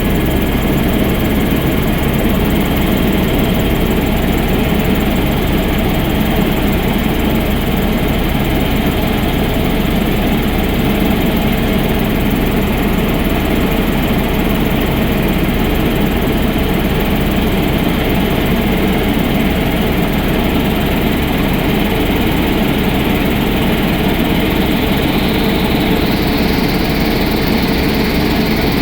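Sightseeing helicopter in flight: a loud, steady drone of engine and rotor.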